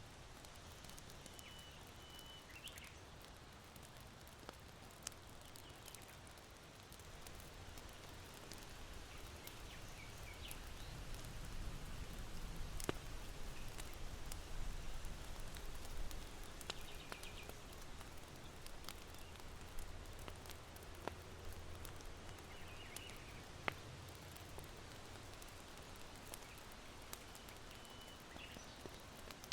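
Charcoal in an irori hearth crackling with scattered sharp pops, while small birds chirp faintly now and then. A low wind gust swells in the middle and dies away.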